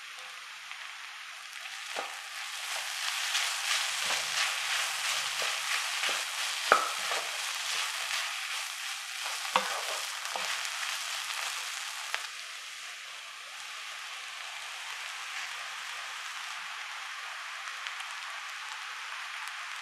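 Vegetables frying in oil in a wok, sizzling steadily while they are stirred with a wooden spatula, with scraping and a few sharp knocks of the spatula against the pan. The sizzle grows louder about two seconds in and settles to a quieter, even hiss for the last several seconds.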